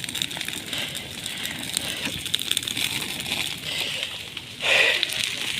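Wildfire burning through forest brush: a steady crackling hiss with many small pops, swelling louder for about half a second near the end.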